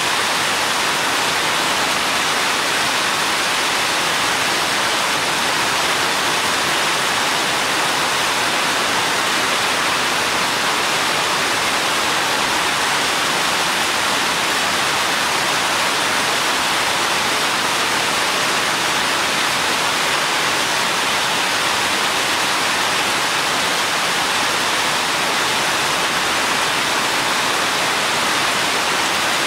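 Steady rain falling, an even, unbroken hiss with no distinct drops, thunder or other events.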